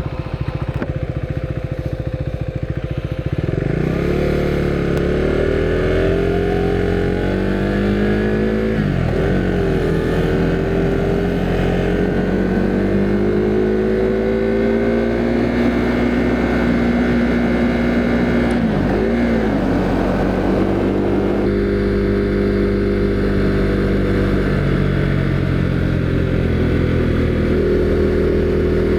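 Husqvarna Svartpilen 401's single-cylinder engine pulling away about three seconds in, rising in pitch, with two brief dips where it shifts up a gear and climbs again, then running steadily at cruising speed.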